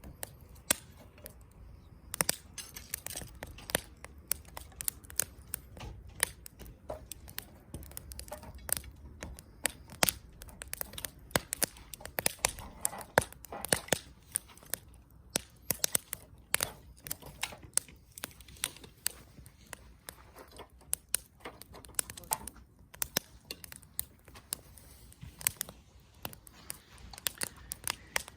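Wood campfire crackling: irregular sharp pops and snaps, several a second, from burning wood.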